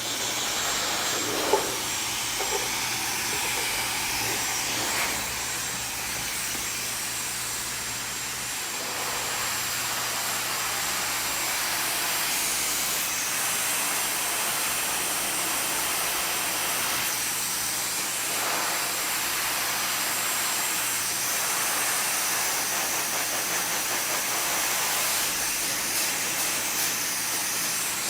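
Handheld hair dryer blowing steadily: a constant rush of air with a thin high whine.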